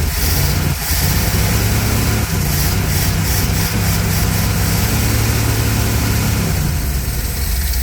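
The 1986 Ford F250's 300 cubic-inch (4.9 L) inline-six is running, lifting slightly in speed about a second in and dropping back near the end. The owner suspects a large vacuum leak, with air being pulled through an open smog-system port.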